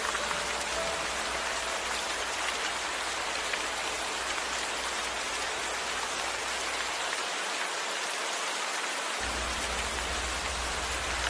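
Steady rain falling, an even hiss, with a low rumble underneath that drops out for about two seconds near the end.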